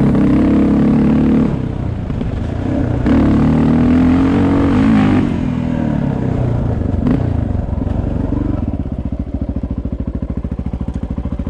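Honda XR400R's single-cylinder four-stroke dirt bike engine running with revs rising and falling under throttle, then dropping near the end to a steady, evenly pulsing idle.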